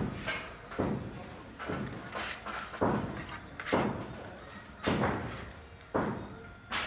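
Construction work: a tool striking something hard again and again, about once a second, each knock ringing out briefly.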